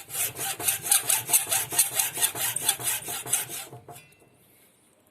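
Fast back-and-forth scraping strokes, about five a second, stopping about four seconds in.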